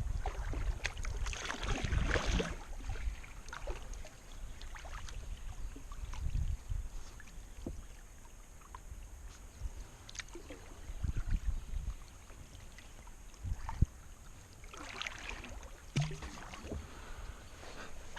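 Kayak paddle strokes in the water: splashes and drips that swell every few seconds, with scattered light clicks.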